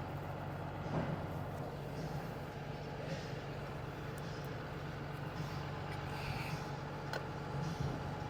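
Heavy truck's diesel engine idling steadily, with a couple of light clicks about a second in and again near the end.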